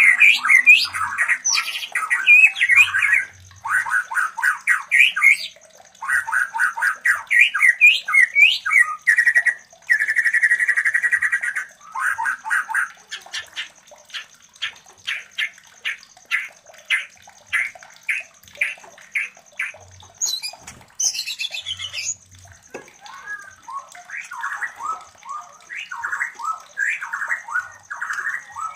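White-rumped shamas (murai batu) calling while mating, in phrases of quick chattering and chirping notes, with a run of sharp ticks at about two a second in the middle. A steady high-pitched tone runs underneath.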